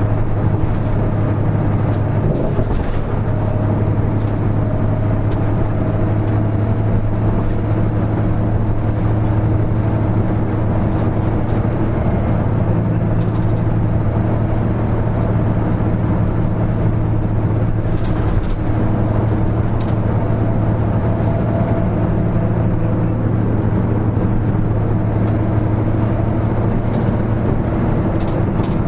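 Hino Rainbow HR city bus running at a steady speed, its diesel engine a constant low drone. A few brief clicks or rattles come through at scattered moments.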